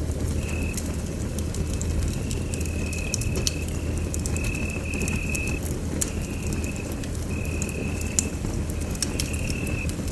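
Wood fire burning in a fireplace: a steady low rumble with frequent sharp crackles and pops, and a thin high whistle that keeps breaking off and starting again.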